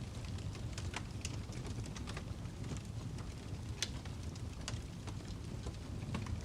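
Fireplace fire crackling: scattered, irregular sharp pops over a low, steady rumble.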